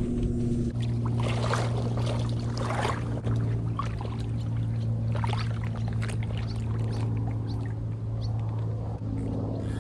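Lake water splashing and sloshing as someone wades out, over a steady low drone.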